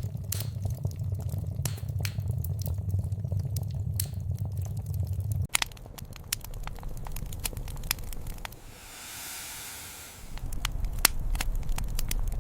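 Wood fire crackling with scattered sharp pops over a low rumble. The rumble cuts off suddenly about five and a half seconds in and comes back near the end, and a soft hiss rises for a second or so in between.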